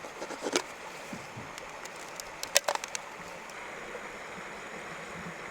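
Steady rush of flowing water. Over it come a few sharp clicks about half a second in, and a louder cluster of clicks around two and a half seconds in.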